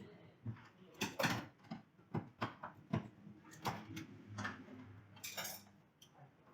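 About a dozen irregular clicks and knocks of tools and parts being handled during an air-conditioner installation.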